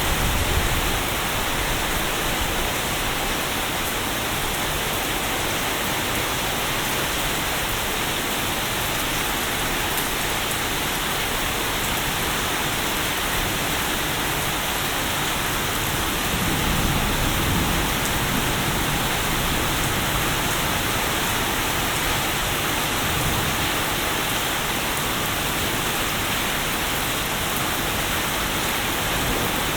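Steady heavy rain falling, an even hiss, with a low rumble swelling briefly about halfway through.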